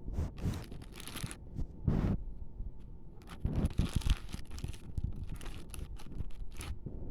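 A bag crinkling and rustling as chunks of white dirt (kaolin clay) are handled and taken out of it, with short clicks of the hard pieces among the rustling.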